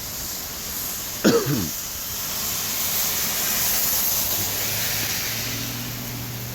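Heavy, wind-driven rain falling, a steady hiss that swells in the middle. About a second in, a brief falling vocal sound breaks in.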